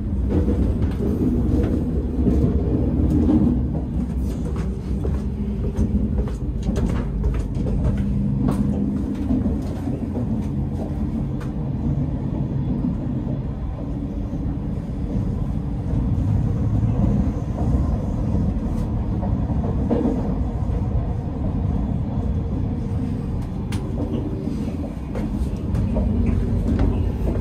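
Running noise of an Alstom Euroduplex high-speed train heard from inside, a steady low rumble, louder in the vestibule between cars. Scattered light clicks and knocks sound through it.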